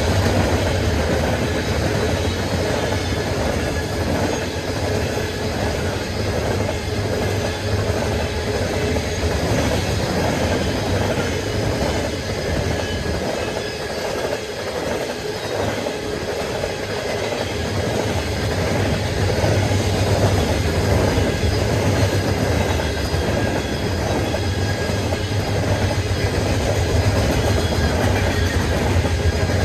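Freight train rolling steadily past, its cars' wheels running over the rails in a continuous rumble and clatter.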